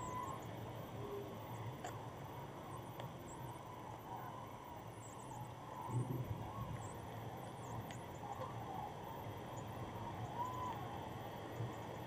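Distant birds calling: scattered short, high chirps and a few faint, wavering calls, over a steady low rumble of wind on the microphone.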